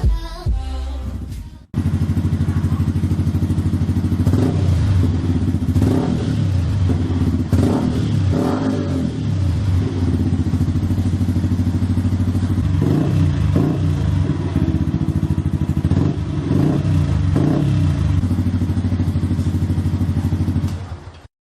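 Yamaha R15 V3's 155 cc single-cylinder engine idling through its exhaust and revved in short blips: a cluster of quick throttle blips in the first half and another after a steady stretch of idle.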